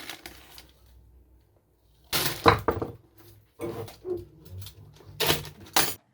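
Skateboard parts being handled and worked on during assembly: three short, loud scraping and rustling bursts with quieter handling noise between.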